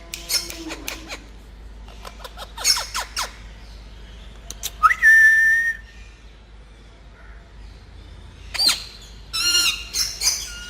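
Pet parrots making short, harsh calls in several clusters, with one clear whistle about five seconds in that rises and then holds steady for about a second.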